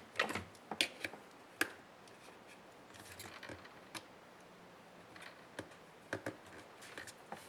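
Scattered sharp clicks and taps of small plastic and metal laptop parts being handled and worked with hand tools during disassembly. There are several in the first two seconds and a few more near the end.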